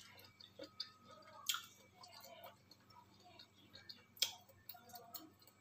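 A person chewing a mouthful of grilled chicken and green beans close to the microphone, with small wet mouth clicks and two sharper clicks, about one and a half and four seconds in.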